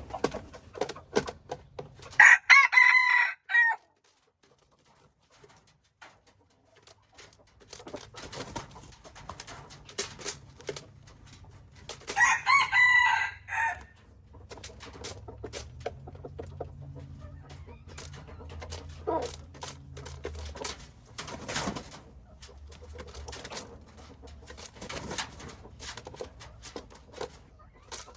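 Rooster crowing twice, about ten seconds apart, with quieter chicken clucking and scattered clicks between the crows.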